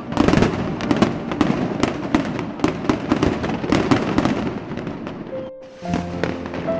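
Fireworks going off densely, with rapid bangs and crackling, until a sudden stop about five and a half seconds in; then music with held notes begins.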